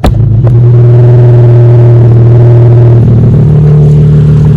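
Nissan 350Z's V6 engine idling, with a sharp click at the very start; about three seconds in the engine speed steps up slightly and holds at a faster idle.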